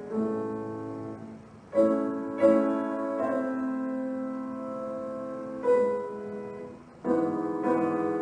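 Background solo piano music: slow classical chords, struck and left to ring, with new chords entering every second or two.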